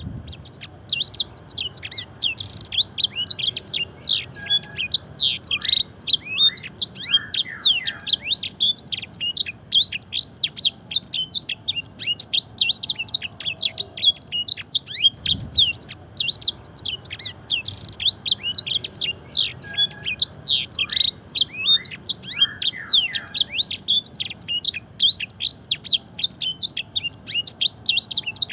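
Domestic canary singing a fast, unbroken song of rapid chirps, sweeps and trills, a song carrying blackthroat and edel sanger phrases; it starts abruptly.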